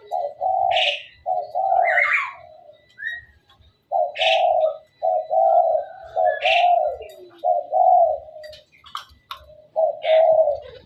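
Javan myna calling: a series of low, throaty notes, each lasting half a second to a second, broken by short high sharp whistles.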